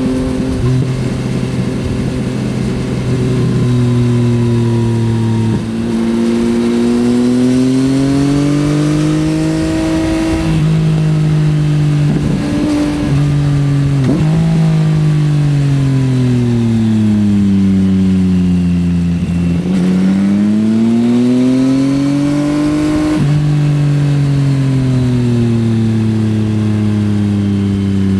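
Yamaha XSR900's three-cylinder engine through an Akrapovič exhaust, ridden hard: the revs climb and fall over and over, with sudden drops in pitch at gear changes, under a steady rush of wind.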